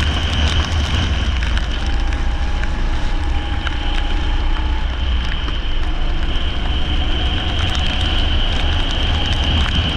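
Leisure kart engine running hard at race pace on a wet track, easing briefly a couple of seconds in and then pulling again.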